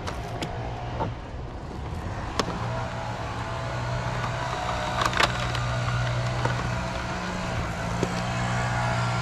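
Truck engine running while driving, a steady low hum that grows a little louder about two and a half seconds in, with a few sharp clicks and knocks.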